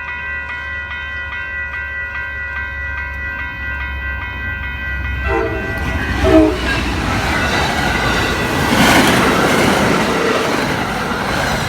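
Railroad crossing bell dinging steadily over a low train rumble. About five seconds in come two short train horn blasts, then a fast train rushes through the crossing with wheel and rail noise that peaks a few seconds later and starts to ease near the end.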